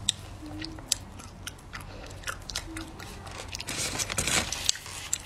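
A person chewing hard-frozen ice cream with the mouth close to the microphone: irregular sharp crunches and bites, thickest around four seconds in.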